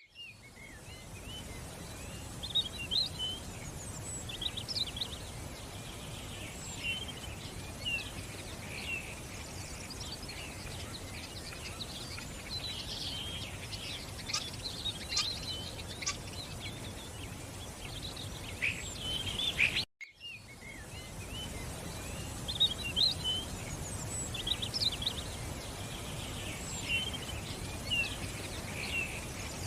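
Many small birds chirping and singing over a steady outdoor background noise. About twenty seconds in, the sound cuts out for a moment and fades back in.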